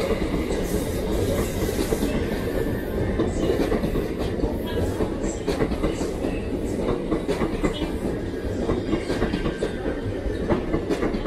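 A train running along the track, with a steady rumble and its wheels clattering over rail joints many times.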